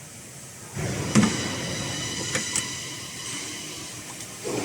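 Air duct production line machinery switching on about a second in with a click, then running with a steady noise and a faint high whine, with a few more sharp clicks.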